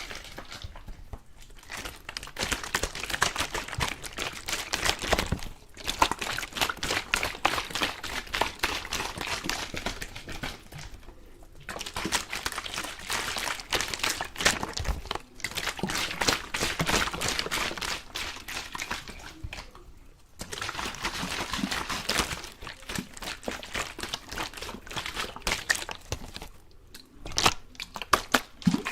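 Close-miked ASMR sounds: dense crinkly crackling in runs of a few seconds, separated by brief pauses.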